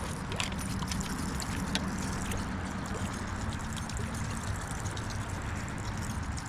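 Steady rush of flowing creek water, with a few faint clicks scattered through it.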